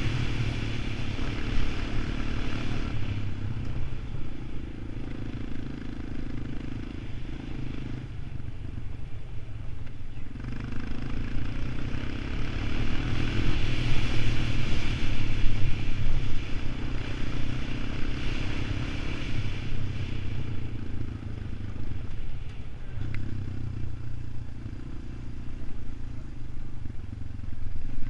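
An ATV's engine running, its speed rising and easing every few seconds, with some rattling.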